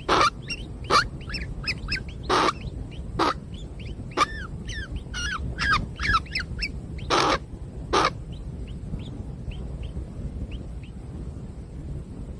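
Birds calling at a nest: about six loud, harsh squawks in the first eight seconds, mixed with many short chirps sliding up and down, typical of nestlings begging. Near the end only a few faint high chirps remain.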